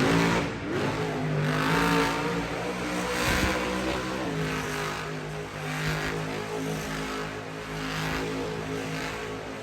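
Monster truck engine revving hard, then running on at changing revs, its pitch rising and falling, and dying away near the end.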